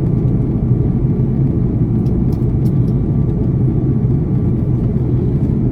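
Airbus A330 in flight, heard from inside the passenger cabin: a steady low roar of engines and airflow.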